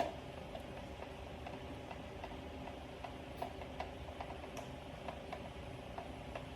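A sharp click, then a string of light, irregular ticks over a steady low hum.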